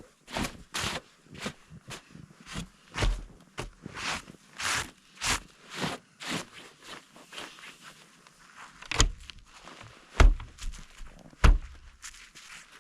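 Footsteps crunching through deep fresh snow, a step about every half second, then three heavier thumps about a second apart near the end.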